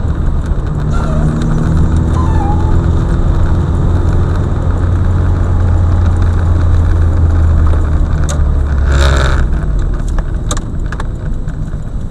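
A road vehicle's engine and tyres running: a steady low drone that fades about nine and a half seconds in, with a short, sharp higher-pitched burst just before it drops and a few clicks around it.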